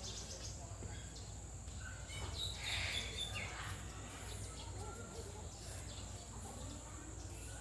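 Outdoor ambience: a steady high insect drone with a few short bird chirps, the loudest about three seconds in, over a low rumble.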